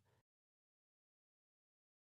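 Silence: a digitally silent gap, with only the faint tail of the preceding spoken word in the first instant.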